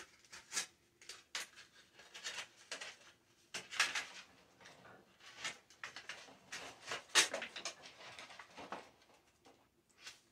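Thin tin-can sheet metal being handled and shaped by hand: irregular light clicks, crinkles and scrapes, loudest about 4 and 7 seconds in.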